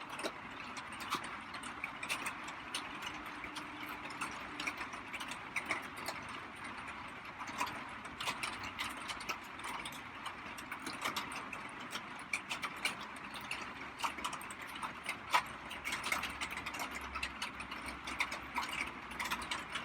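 Light rain falling as a steady hiss, with many irregular sharp ticks scattered throughout.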